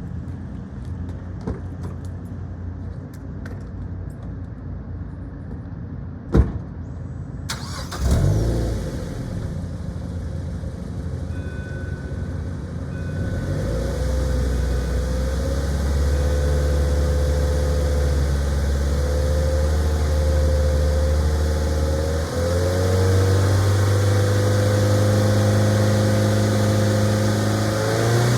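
Mazda MX-5 Miata NC's stock 2.0-litre four-cylinder through its stock muffler. It catches about eight seconds in with a brief flare and settles to idle. From about halfway it is held at steady higher revs, stepping up again about three quarters of the way through.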